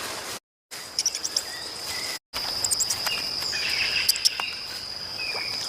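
A steady high-pitched insect trill, like a cricket, with short bird chirps and twitters over it. The sound cuts out to dead silence twice in the first two and a half seconds.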